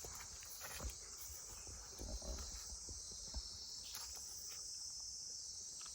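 Steady high-pitched chorus of forest insects, with a few soft clicks and rustles over it.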